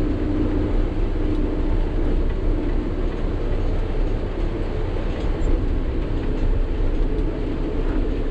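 Sany 6x4 dump truck on the move: a steady low engine drone mixed with road noise.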